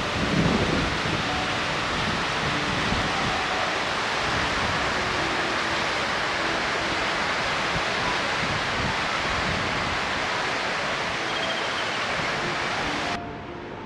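Steady rushing of a river's flowing water, cut in and out abruptly, with faint background music under it.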